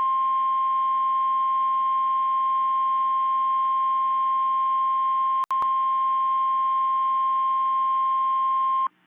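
NOAA Weather Radio's 1050 Hz warning alarm tone, a single steady loud tone held for about nine seconds over a faint radio hiss. It signals that a warning, here a tornado warning, is about to be read. The tone breaks briefly with a click a little past halfway.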